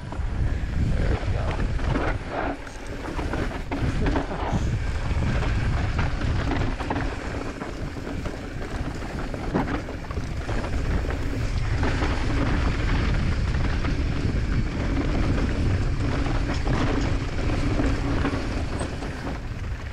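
Mountain bike descending a rocky trail: wind buffeting the camera microphone over the rumble and rattle of the bike's tyres and frame on rough ground, with sharp knocks in the first few seconds and a steady low hum through the middle.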